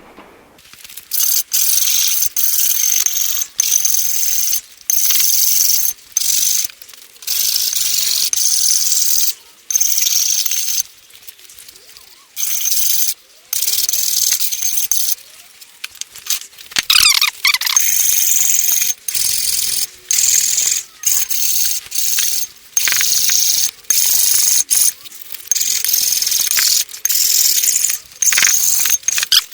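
Repeated scrubbing strokes on a flathead Ford V8 cylinder head as it is cleaned up, in scratchy bursts of a second or two with short pauses between. One brief falling squeal comes about halfway through.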